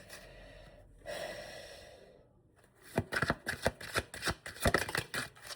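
Tarot deck being handled and shuffled: a soft hiss for the first couple of seconds, then from about three seconds in a run of quick, irregular card clicks and snaps.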